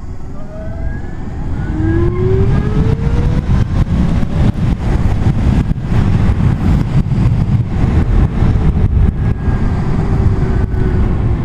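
Zero SR electric motorcycle accelerating: its motor whine rises in pitch over the first few seconds, then holds near steady. A loud low rush of wind and road noise builds with speed underneath.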